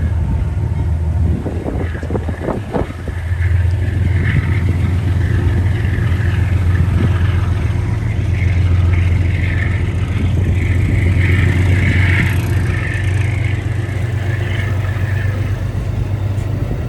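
Diesel train running past: a steady, loud low engine rumble with a higher rushing noise of wheels on rail that comes and goes.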